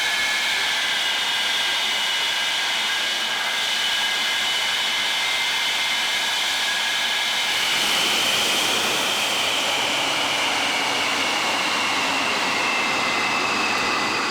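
Saab J35 Draken's turbojet engine running with a steady roar and a high whine of several tones, the whine sinking slightly in pitch and growing a little louder about halfway through.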